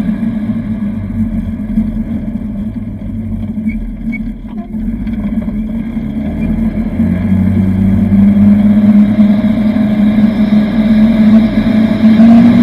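Side-by-side UTV engine running while driving, a steady drone that grows louder through the second half.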